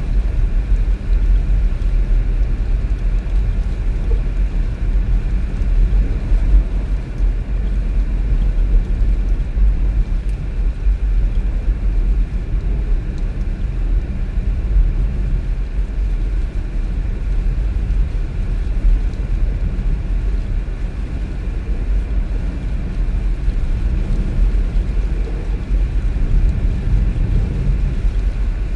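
Car driving: a steady, deep rumble of road and engine noise with no breaks.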